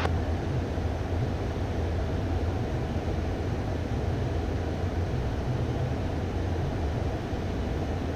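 Steady cockpit noise of a Beechcraft Premier I twin-turbofan business jet in cruise at flight level 280: an even rush of airflow and engine sound over a deep low drone.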